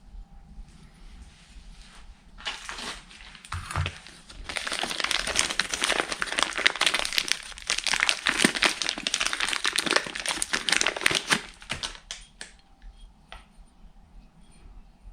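Crinkling and crumpling, a dense irregular crackle of material being handled. It starts about two and a half seconds in, is heaviest in the middle, and dies away near the end.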